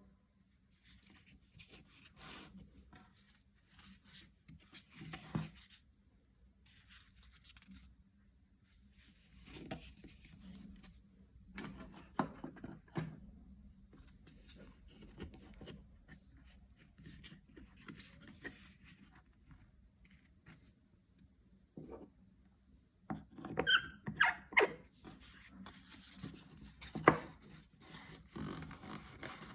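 Workshop hand-work noises: intermittent rubbing and scraping on a small object, with a denser run of sharp clicks and squeaks near the end.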